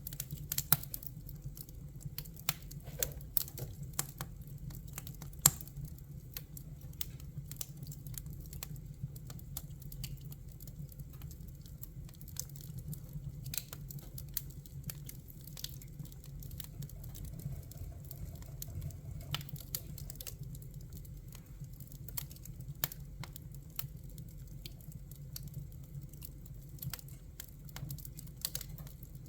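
Wood fire crackling: irregular sharp pops and snaps, a few louder ones about a second in and near six seconds in, over a steady low rumble of the flames.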